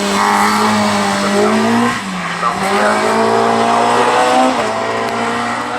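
Race car engine under hard acceleration, its pitch rising, dropping abruptly on a gear change about two seconds in, then rising again.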